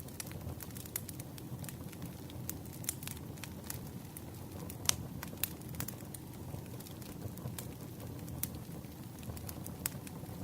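Campfire crackling: wood burning with a steady low rumble and irregular sharp pops and snaps. One louder pop comes about halfway through.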